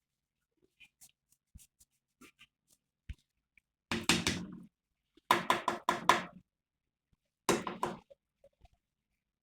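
Livestock bleating: three loud calls about four, five and a half and seven and a half seconds in, the middle one longest, over faint scattered knocks.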